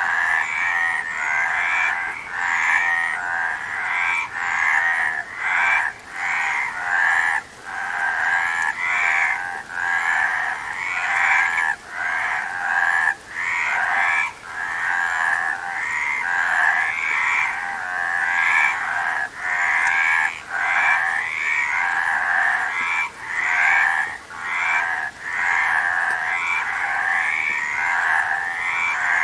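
A chorus of frogs croaking: many overlapping pulsed calls, one after another, more than once a second without a break.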